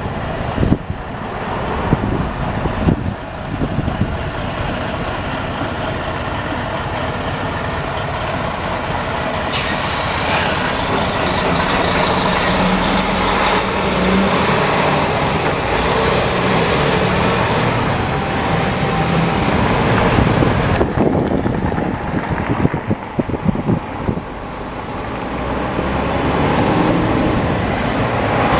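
Heavy diesel dump trucks driving past, their engines running loudly. A high hiss starts abruptly about ten seconds in and stops suddenly about eleven seconds later.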